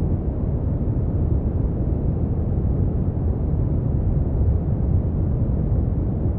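Synthetic brown noise: a steady, deep hiss, heaviest in the bass and fading out toward the treble, with no change in level.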